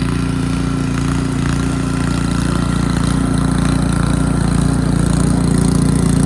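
Gas-powered snow blower engine running steadily.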